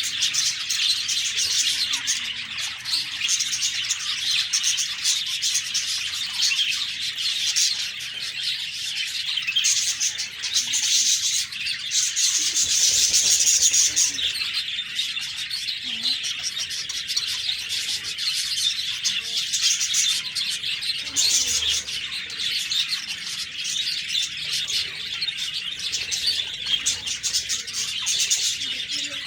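A flock of budgerigars chirping and chattering continuously, many high chirps overlapping, a little louder about halfway through.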